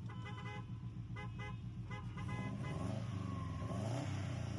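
Car engine running at low revs: a steady low drone whose pitch starts to waver up and down about halfway through. During the first second and a half, short high tones sound over it.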